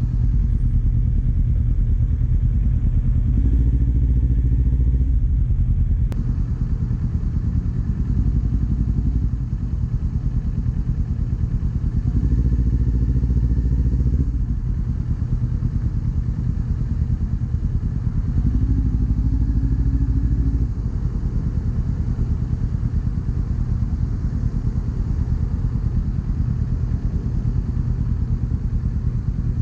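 Kawasaki Z400 parallel-twin engine, fitted with an Akrapovič exhaust, running steadily while riding. It gets louder in three stretches: a few seconds in, near the middle, and about two-thirds through.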